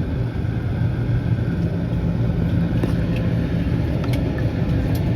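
Steady low hum of an airliner cabin on the ground, from the ventilation and engine or APU noise, with a few faint clicks.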